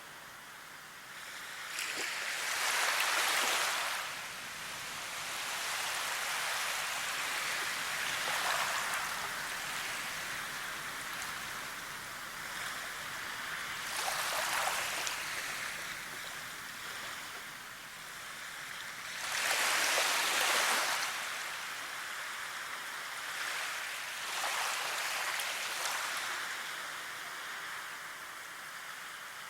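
Running water: a steady wash that swells louder about every five to six seconds, then falls back.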